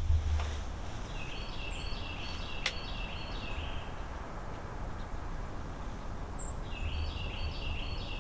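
A songbird singing a fast run of repeated notes, about two seconds long, twice: about a second in and again near the end. Light wind hum underneath, and a single sharp click during the first song.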